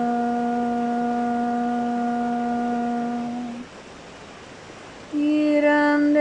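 A woman's voice toning in light language, holding one long, steady sung vowel for about three and a half seconds. After a short pause filled only by a faint even hiss of running water, she starts a second held note a little higher.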